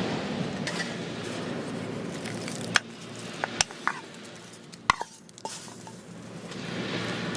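Metal cookware and utensils clinking: a few sharp knocks with short ringing in the middle stretch, over a steady rushing background that drops away for a moment and comes back near the end.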